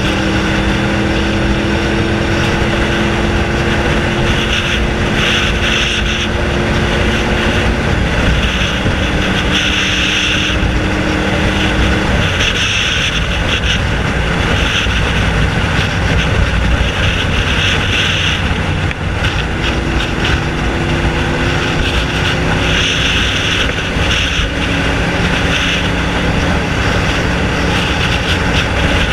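Honda VFR750F's V4 engine with no muffler, running at a slow riding pace under heavy wind noise. Its note creeps slowly upward, drops about eight seconds in at a gear change, fades under the wind for several seconds in the middle and then comes back.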